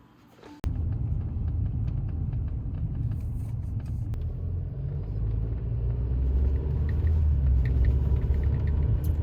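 Low road rumble inside a moving car's cabin on a rough, bumpy city road, starting abruptly a little over half a second in, with faint clicks and rattles over it.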